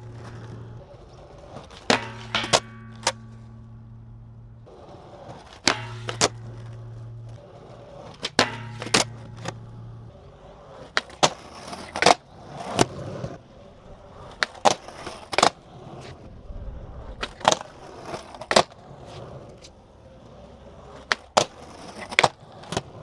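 Skateboard wheels rolling on concrete, with repeated sharp clacks of the deck popping, hitting and landing during 50-50 grind attempts on a low manual pad.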